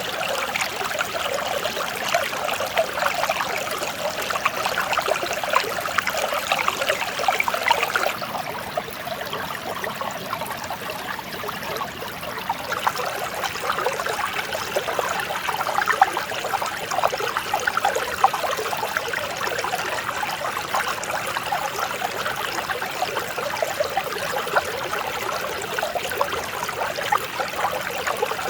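Clear mountain stream flowing and babbling over rocks, a steady splashing gurgle.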